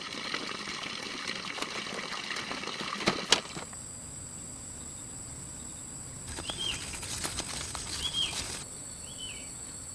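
Water running for about the first three seconds, then two sharp knocks. After that a steady high-pitched whine carries on, with three short bird chirps spaced about a second apart.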